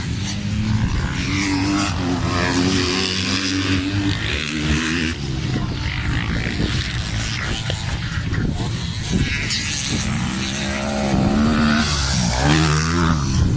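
Racing motorcycle engines running hard, their pitch climbing in steps and dropping again as the riders work the throttle and shift gears.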